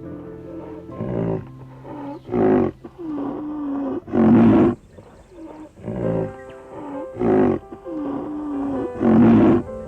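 An animal calling, six short loud calls about a second or two apart, over background music.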